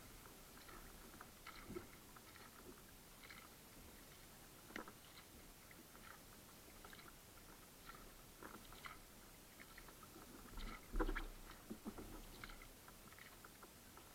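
Faint water sounds from a kayak on the water: scattered small splashes, drips and light knocks against the hull. There is one louder thump and splash about eleven seconds in.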